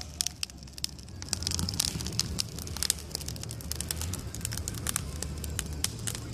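Wood fire crackling in an upright log with chainsaw slits burning from the top, with many sharp, irregular pops and snaps.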